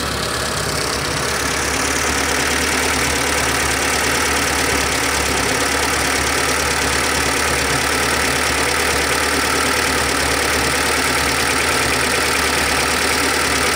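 Carbureted four-cylinder engine of a 1997 Mitsubishi T120SS idling steadily. Its spark plug leads are being worked at the distributor cap to find a dead plug or lead.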